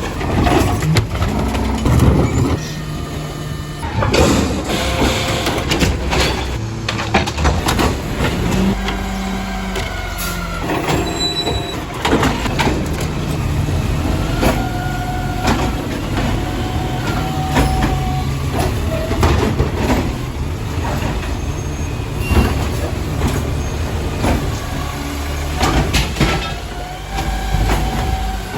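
Garbage truck's diesel engine running while its lifting arm dumps trash carts, with repeated loud bangs as the carts are slammed against the hopper and a whine that rises and falls as the hydraulics work.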